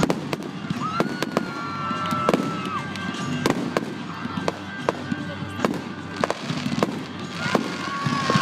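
Aerial fireworks display: a rapid run of sharp bangs from bursting shells over continuous crackling. A long high tone sounds about a second in and again near the end.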